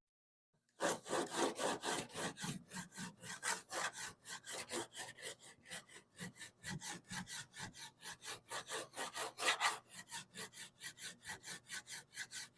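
Hand block-sanding partly cured body filler on a car's wheel lip: quick back-and-forth rasping strokes, about four a second, starting about a second in.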